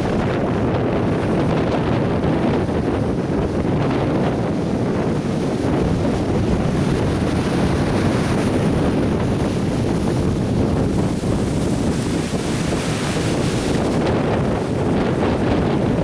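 Atlantic Ocean surf breaking and washing ashore without a pause, with wind buffeting the microphone. The hiss of the wash swells for several seconds past the middle.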